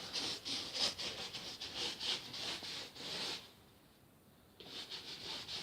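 Glue being spread over polystyrene foam board in quick back-and-forth rubbing strokes, about four a second. The strokes stop for about a second a little past halfway, then start again.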